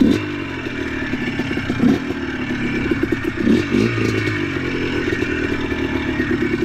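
ATV engine running with clatter, starting abruptly, with a few short throttle blips that briefly raise its pitch.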